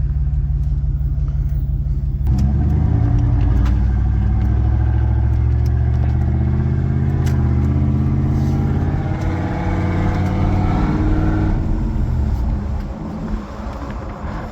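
1994 Dodge Dakota's engine pulling the truck along. About two seconds in it gets louder and rises slowly in pitch as the truck accelerates, then falls off near the end as the throttle eases.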